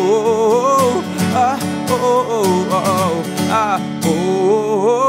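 Live acoustic song performance: an acoustic guitar strummed steadily under a melody of long, wavering held notes.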